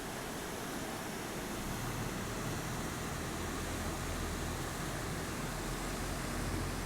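Flash-flood water rushing across a road: a steady rushing noise, with a low rumble that grows stronger about two seconds in.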